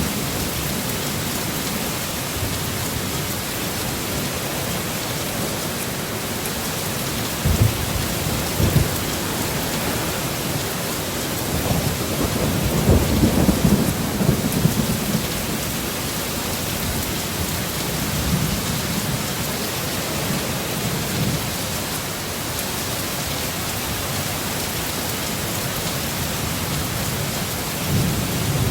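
Heavy, steady rain with thunder: two short low thumps about a quarter of the way in, a longer rolling rumble about halfway through, and another brief rumble near the end.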